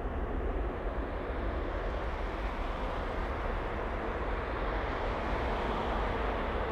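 Jet airliner engine noise, a steady rumbling hiss that swells a little in the middle.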